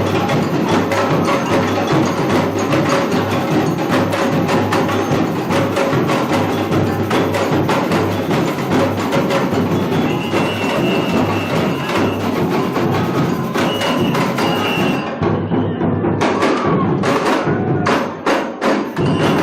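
A samba bateria drum ensemble playing a loud, dense samba rhythm of drums and clacking small percussion. Near the end the playing thins to a few separate accented strokes.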